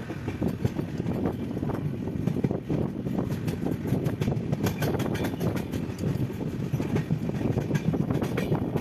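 Passenger train running along the track: a steady low rumble with frequent, irregular clicks and rattles from the wheels and carriage.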